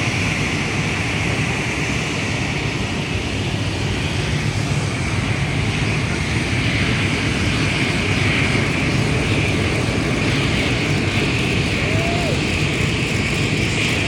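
Aircraft engine running steadily and loudly, with a constant high whine over a low rumble.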